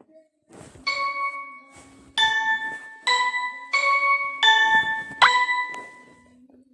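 A short tune of six struck, bell-like notes on tuned percussion, each ringing briefly before the next, moving back and forth between a few pitches.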